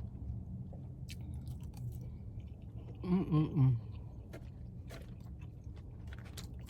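A person chewing food close to the microphone, with small wet clicks and crunches. A short hummed murmur comes about three seconds in.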